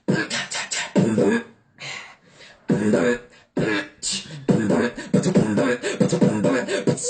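Beatboxing: a person making electronic-style beats with the mouth, quick percussive strokes mixed with buzzing, pitched bass hums in a fast rhythm.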